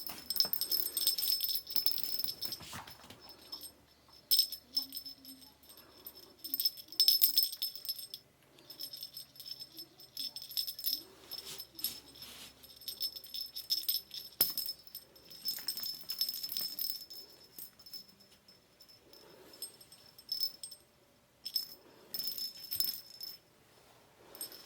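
Small bell on a cat toy jingling and rattling in irregular bursts as it is batted about, with short pauses in between.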